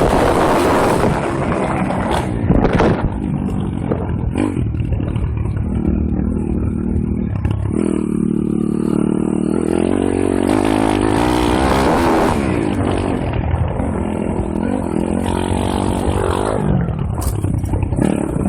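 M2R KX140 pit bike's 140cc single-cylinder four-stroke engine being ridden hard, its revs rising and falling with the throttle, with a few short knocks and clatter from the bike.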